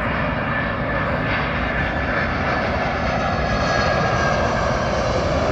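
Boeing 767 freighter's twin jet engines passing low overhead on landing approach: a loud, steady rumble with a high whine on top, growing slightly louder.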